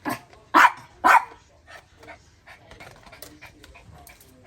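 Dog barking three times in quick succession, about half a second apart, then only faint small sounds.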